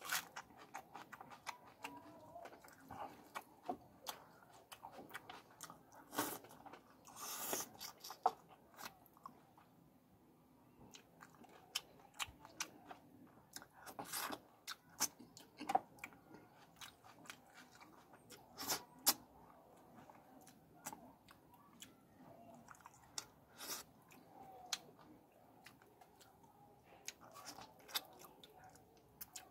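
Close-up chewing and biting of pieces of fish in curry sauce, with many short, sharp clicks and crunches throughout and a denser crackly patch about seven seconds in.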